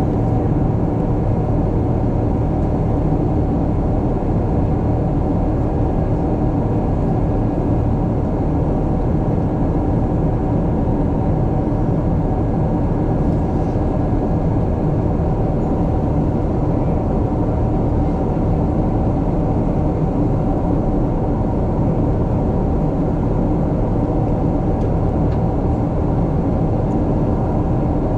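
Steady cabin noise inside a Boeing 777-300ER in flight: a constant low rumble of airflow and the GE90 engines, with a faint steady hum on top.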